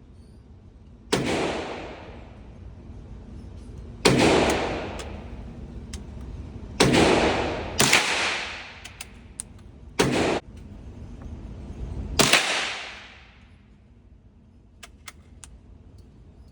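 .22 LR bolt-action rifle firing six shots, a few seconds apart and two close together, each shot followed by a trailing echo, with small metallic clicks of the bolt being worked in between.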